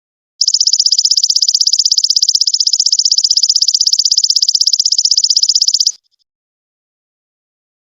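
Song of the golden locust (belalang emas) insect: a rapid, even, high-pitched pulsing trill that starts about half a second in, runs for about five and a half seconds and cuts off suddenly.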